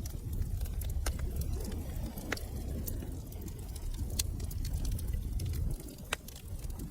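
Wood fire crackling in a fireplace: irregular sharp pops and snaps over a low, steady rumble of burning, which eases slightly near the end.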